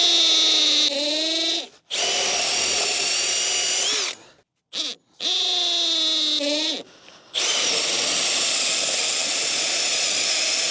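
Power drill boring 1/2-inch holes through 4x4 timber. It runs in four spells of a few seconds each with short stops between them, the motor's pitch sagging as the bit bites into the wood.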